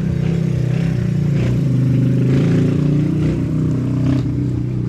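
A motor vehicle engine running steadily, a low drone that drifts slightly up and down in pitch.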